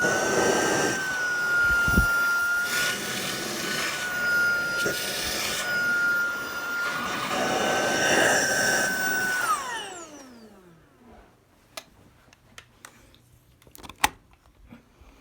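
Tineco cordless stick vacuum running with a steady high whine and a rushing of air that swells now and then as the crevice tool works along the furniture. About nine and a half seconds in it is switched off, and the whine falls away as the motor spins down, followed by a few clicks.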